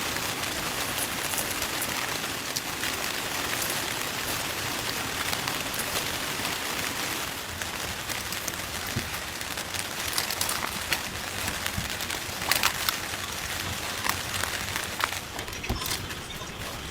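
Steady heavy rain falling, with louder single drops striking close by from time to time, more of them near the end.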